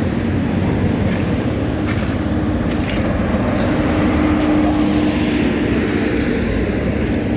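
Heavy diesel road-paving machinery running steadily, with a few short clicks in the first half.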